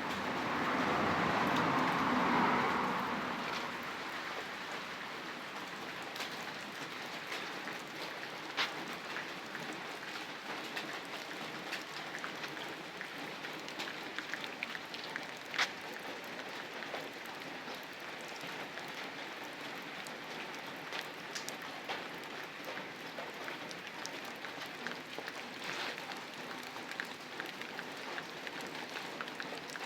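Steady rain falling, an even hiss with a few sharp drip ticks now and then. A louder rush of noise swells and fades in the first few seconds.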